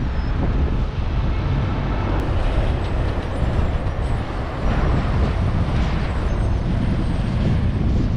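Steady low vehicle rumble with outdoor noise, typical of engines running in a truck stop lot.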